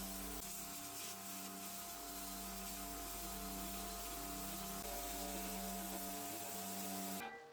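A small electric motor running with a steady hum and hiss, its pitch breaking and resuming every second or so as if under varying load; it cuts off suddenly near the end.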